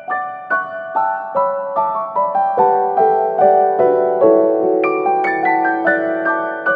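Background piano music: a steady run of single notes, about two or three a second, each ringing on as the next is struck.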